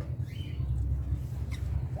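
Lovebirds in a colony cage giving a couple of faint, short chirps over a steady low hum.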